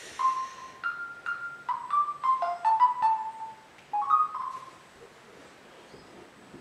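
Mobile phone sounding a quick run of single electronic beeps that step up and down in pitch, like a short tune, for about four and a half seconds.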